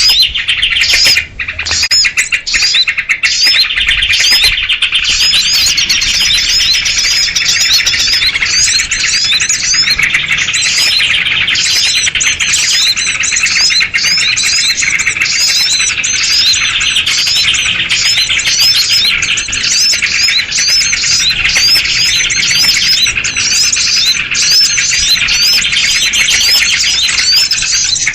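A noisy flock of sooty-headed bulbuls and other small birds chattering and chirping over one another in a dense, unbroken din of short, high notes. It is a bird-trapping lure recording, the kind played to draw small birds in.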